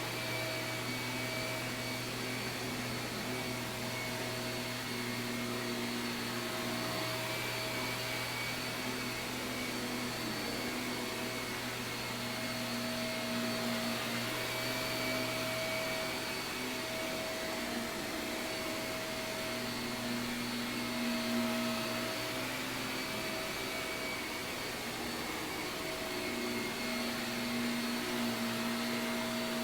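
Shark vacuum cleaner running steadily on carpet: a continuous motor whine and airflow, with some of its tones fading in and out every few seconds.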